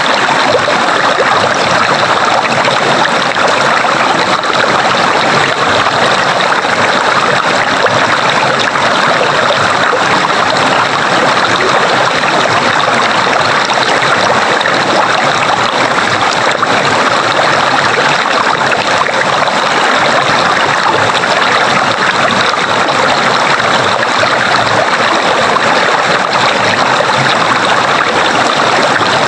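Stream water running steadily, an even rushing with no change.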